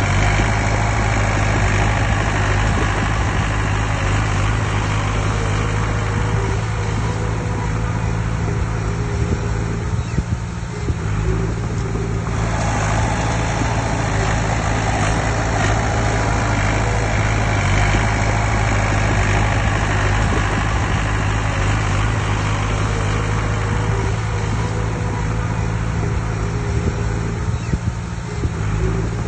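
Heavy diesel engine of an earthmoving machine running steadily, its low engine note held constant, with the harsher upper noise easing off for a moment around ten seconds in and again near the end.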